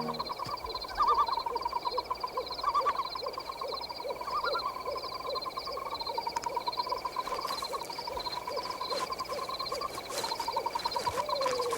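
Night-time forest sound effects: layered animal and insect calls. A low call pulses about two to three times a second under a trilling call and a steady high chirping, with a few sharp snaps in the second half.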